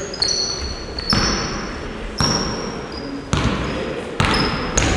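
Basketballs bouncing on a court floor, sharp thuds about once a second with echo after each, among short high squeaks of sneakers on the floor.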